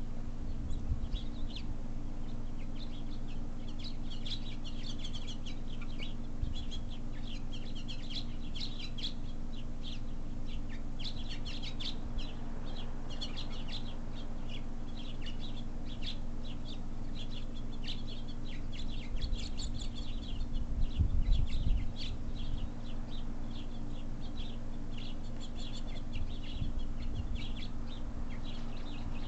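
Many small birds chirping continuously in quick, high calls. Underneath runs a steady low hum, and a low rumble swells briefly about two-thirds of the way through.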